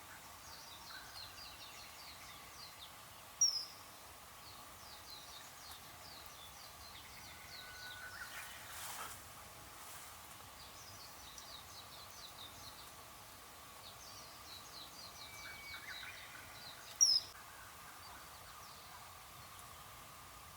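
Wild birds calling: repeated high twittering phrases, with two loud, sharp, high-pitched calls that stand out, one a few seconds in and one near the end.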